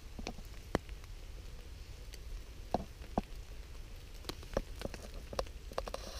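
Scattered raindrops tapping irregularly on a camping tarp, a few sharp drops every second or so, over a low steady rumble.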